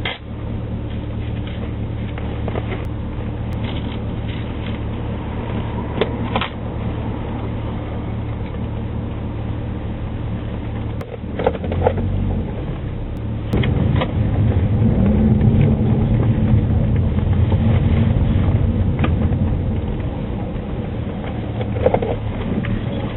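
Car engine and road noise running steadily, growing louder and rougher about fourteen seconds in, with a few faint clicks along the way.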